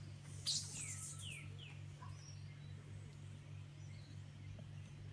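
A Lesser Antillean bullfinch chirping: a sharp click about half a second in, then three quick downward-sliding chirps, over a steady low hum.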